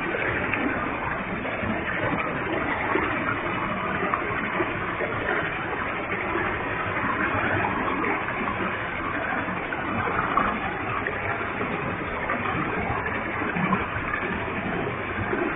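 Waterfall with a heavy flow of water, falling and splashing in a steady, even rush.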